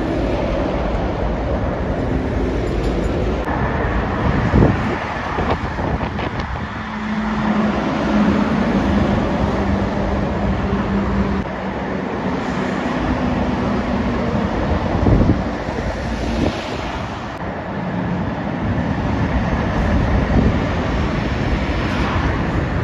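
Trucks and cars passing at speed on a busy main road: constant tyre roar with the diesel engine drone of passing lorries, one engine note standing out for a few seconds near a third of the way in and again a little later.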